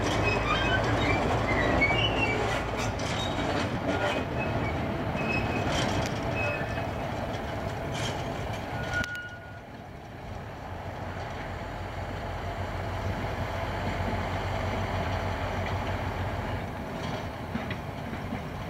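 Rail-carrying work train moving slowly over station tracks: a steady engine hum with short wheel squeaks and clicks in the first few seconds. The sound drops suddenly about nine seconds in, and a quieter engine hum carries on.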